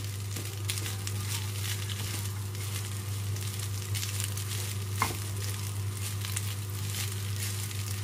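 Egg fried rice sizzling in hot oil in a pan as it is stirred: a steady crackling sizzle over a steady low hum, with one brief knock about five seconds in.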